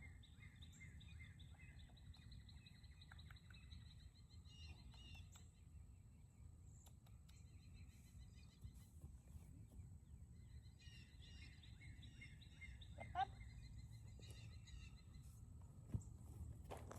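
Faint outdoor ambience: a steady low rumble, with small birds chirping in quick repeated trills in two spells and one brief sharp sound about thirteen seconds in.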